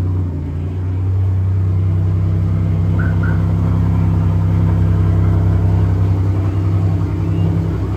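Pontiac Grand Prix GT's 3.8-litre V6 through a catless exhaust, idling steadily just after being started.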